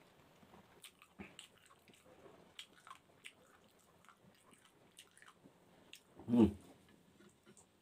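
A person chewing, with wet mouth smacks and small clicks while eating rice by hand. About six seconds in comes one short, louder, low mouth noise as a handful of rice goes into the mouth.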